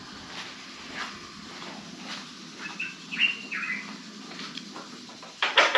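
A few short, high bird chirps about halfway through, over faint scattered clicks, with a loud short burst of noise near the end.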